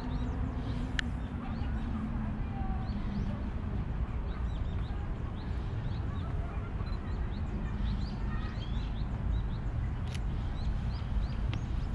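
Small birds chirping again and again, short high notes scattered throughout, over a steady low rumble.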